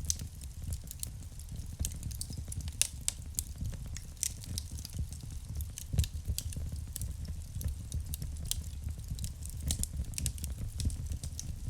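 Wood fire burning in a fireplace: a low steady rumble of flames with frequent irregular sharp crackles and pops from the burning logs, a few louder pops standing out.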